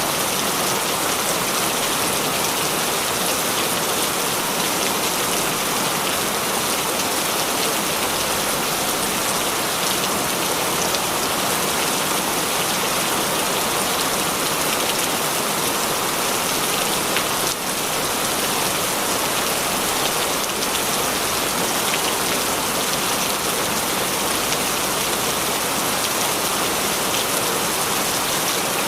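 Heavy rain falling steadily: a dense, even hiss of countless drops hitting a surface. There is a brief dip in level a little past halfway.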